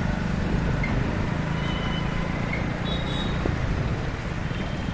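Steady low rumble of wind and road noise from a moving motorbike in city traffic, with a few faint, short high tones about two and three seconds in.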